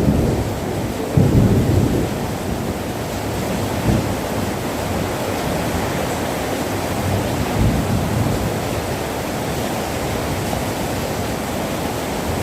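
Heavy rain falling steadily at night, with a low rumble about a second in that stands out over the rain.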